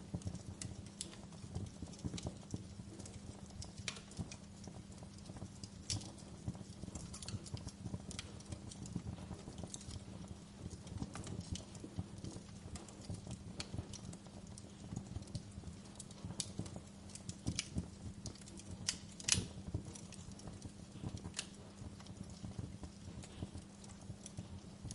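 Fire crackling with irregular sharp pops and snaps over a low, dense crackle, the loudest pop about nineteen seconds in. A faint steady low hum runs underneath.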